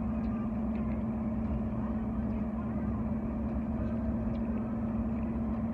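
Steady engine and road noise heard inside a moving car's cabin, with a constant low drone.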